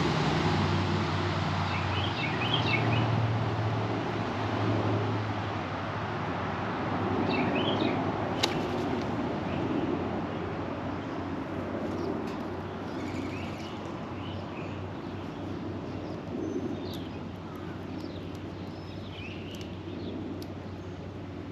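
Small birds chirping in short scattered bursts over a steady low rumble of distant traffic. The rumble is strongest in the first few seconds and eases off, and there is a sharp click about eight seconds in.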